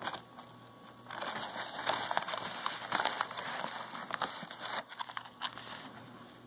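Crinkly plastic packaging being handled and pulled open, a dense crackling rustle with small clicks that runs for about four seconds from about a second in, then eases off.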